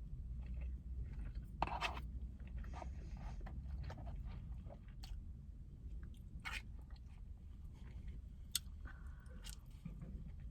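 A person chewing and biting food close to the microphone, with scattered sharp crunches and mouth clicks over a steady low hum.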